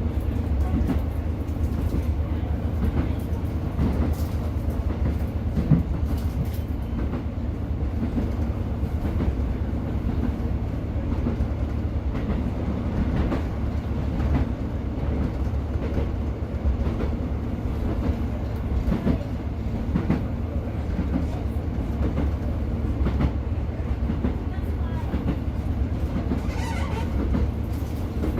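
A Class 150 diesel multiple unit heard from on board while under way: a steady low rumble of the underfloor diesel engine and the wheels on the track, with clicks now and then as the wheels pass over rail joints.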